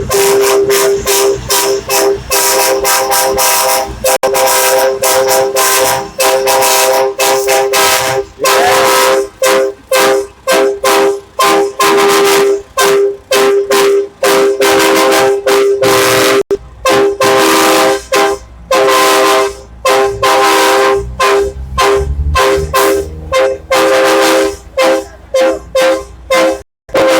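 Truck horns honking in many short blasts in quick succession over a steady horn tone held throughout, in tribute at a truck memorial.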